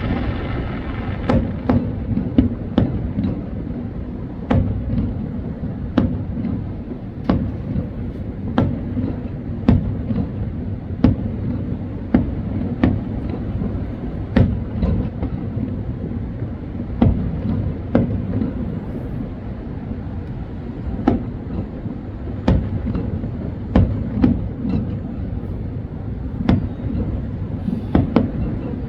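Fireworks display: sharp bangs every second or so, unevenly spaced, over a continuous low rumble of bursts.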